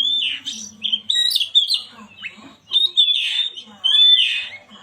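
Oriental magpie-robin (kacer) singing: four quick phrases of whistled notes and glides mixed with harsh, scratchy notes, with short pauses between them.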